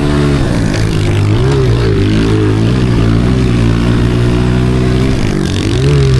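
Honda CRF125 pit bike's single-cylinder four-stroke engine running at speed close to the microphone, mostly holding steady in pitch, rising and falling briefly a few times as the throttle is opened and closed.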